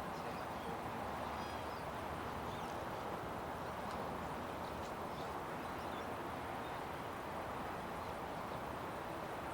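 Steady outdoor background noise, even throughout, with a few faint, brief, high bird chirps.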